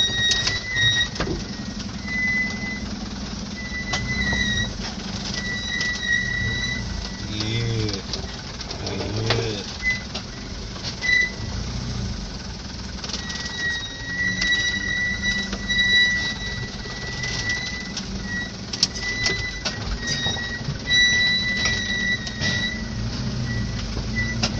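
Birds calling: a high, steady whistling note repeating in short runs, with a couple of low cooing calls about eight and nine seconds in, over a steady low hum.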